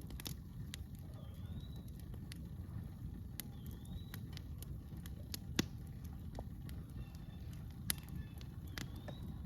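Wood campfire crackling, with irregular sharp pops and snaps over a low steady rumble; the loudest pop comes about halfway through. A bird calls a few times with a short curving note.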